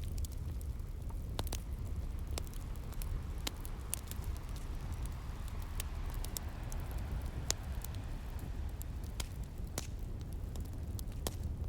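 Wood fire crackling, with irregular sharp pops and snaps, over a steady low rumble and soft wash of sea waves.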